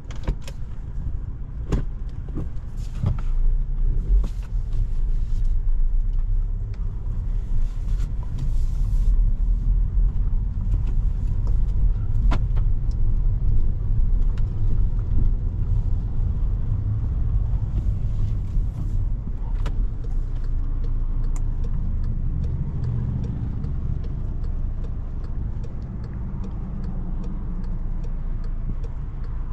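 Cabin sound of a 2017 Volkswagen Jetta SE (turbocharged 1.4-litre four-cylinder, manual gearbox) being driven: a steady low engine and road rumble with a few scattered clicks. In the last third a regular faint ticking runs under the rumble.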